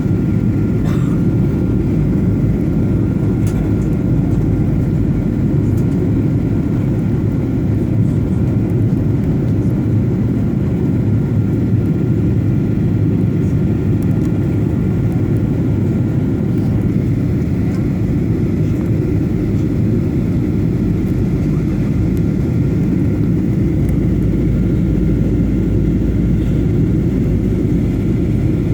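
Steady, mostly low-pitched roar of an airliner cabin on descent, made by engine and airflow noise, with a faint thin whine above it.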